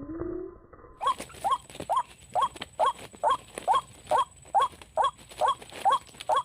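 White-breasted waterhen calling: a run of short, identical notes, each rising then falling in pitch, repeated evenly about twice a second, starting about a second in.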